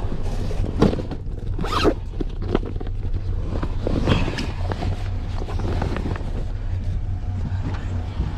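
Several short rasping scrapes, like a zipper being pulled or gear being dragged, over a steady low engine rumble.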